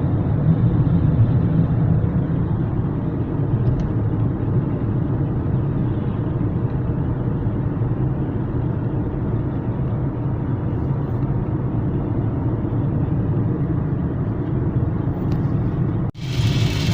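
Steady road and engine noise inside a moving car cruising on a highway. About sixteen seconds in, it cuts off abruptly and gives way to a bright hiss of heavy rain on the car.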